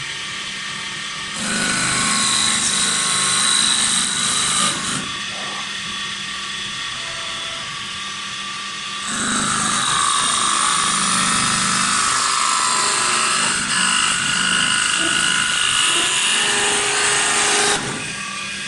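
CNC wood lathe working a wooden table leg: the machine runs steadily, with two loud passes of the tool against the spinning wood. The first starts about a second in and lasts about three and a half seconds; the second starts about nine seconds in and runs about nine seconds before cutting off.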